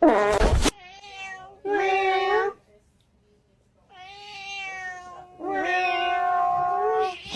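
A cat meowing repeatedly, opening with a loud, sudden cry, then several drawn-out meows with a pause of about a second midway; the longest meow comes near the end.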